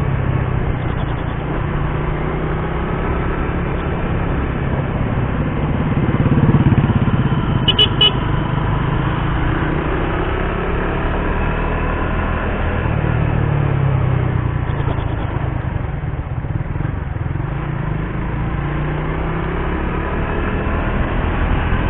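Suzuki GSX-R150's single-cylinder engine running under way, its revs rising and falling as the rider works the throttle. A horn sounds briefly about eight seconds in.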